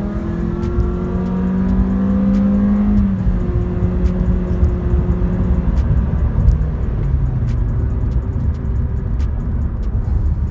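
Car engine accelerating, its pitch rising over the first three seconds, then running on steadily with a heavy low rumble.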